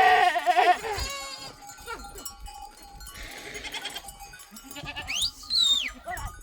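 Goats bleating: one loud, wavering bleat at the start, then quieter calls from the herd. A high call slides up and back down about five seconds in.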